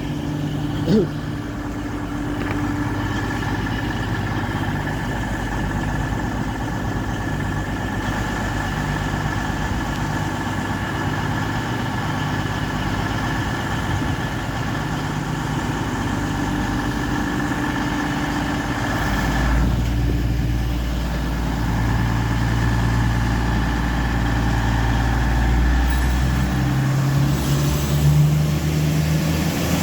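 Class 222 Meridian diesel multiple unit idling at the platform: a steady diesel engine hum with a constant whine over it. About two-thirds of the way through, a deeper, heavier engine note comes in for several seconds.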